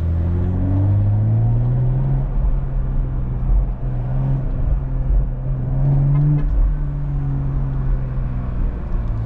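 BMW M340i's turbocharged B58 inline-six under load: the engine note climbs over the first two seconds, holds steady, climbs again about six seconds in, then eases off.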